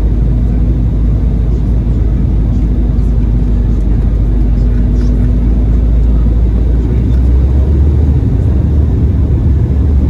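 Cabin noise inside an Embraer 195 airliner during its landing: a loud, steady low rumble of engines and airflow. A faint steady hum fades out about six seconds in, and the deep rumble grows stronger about seven seconds in.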